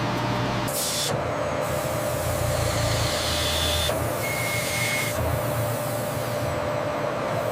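Steady machine noise with a hiss and a low hum, changing abruptly several times, as at edits between shots.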